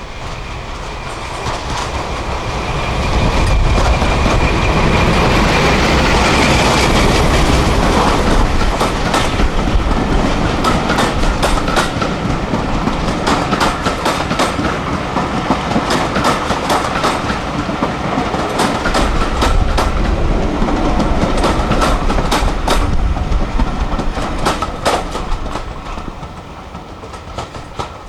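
A train passing close by, its wheels clicking over the rail joints, with a steady high-pitched tone over the rumble. It grows louder about three seconds in and fades near the end.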